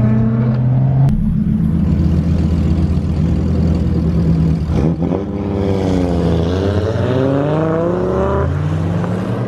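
Car engine running hard and revving, its note climbing and dropping. About five seconds in it drops sharply, then climbs again while a second engine note falls across it.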